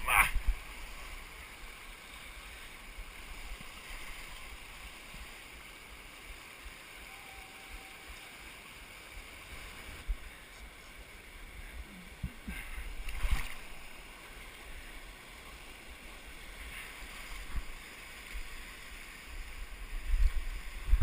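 Steady rush of flowing creek water, with a few brief bumps and splashes about two-thirds of the way through and again near the end.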